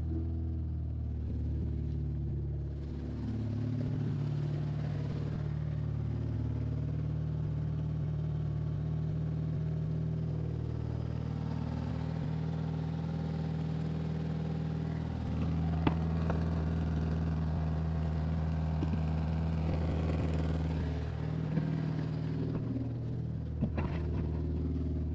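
Car engine idling steadily just after being started, with a couple of sharp clicks partway through. It runs with the bolts of a split gasket freshly retightened.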